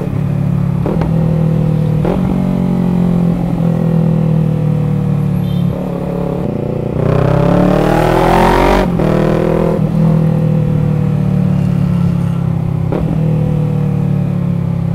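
Yamaha MT-03's parallel-twin engine running through a loud exhaust, easing off, then revving up from about seven seconds in and dropping back a couple of seconds later. Wind noise rises on the microphone during the rev, and a few short clicks come through.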